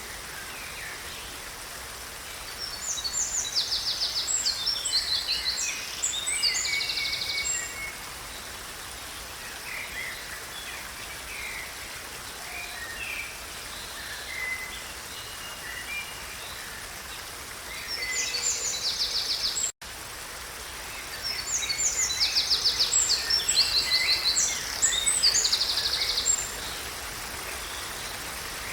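A songbird singing two long, loud songs made of fast trills and buzzy note runs, about three seconds in and again about twenty-one seconds in, with scattered short chirps between, over a steady background hiss.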